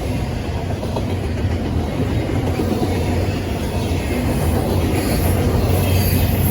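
Freight train rolling past: a steady rumble of wheels on the rails with clickety-clack, growing a little louder toward the end, where a faint high wheel squeal comes in.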